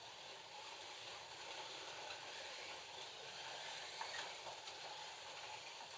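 FLY slot cars running laps on the track: a steady whirring hiss of their small electric motors, tyres and pickup braids on the plastic track.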